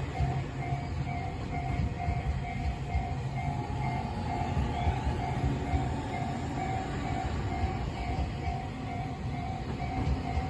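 A Tobu Tojo Line electric train running past, with a steady low rumble and wheel clatter, while a ringing tone repeats in an even on-off beat throughout.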